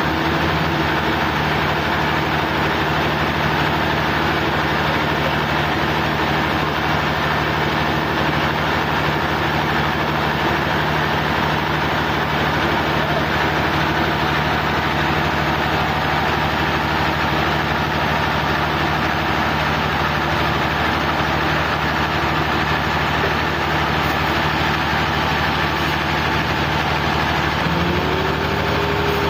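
Sawmill engine running steadily at a constant speed, with a short rising tone near the end.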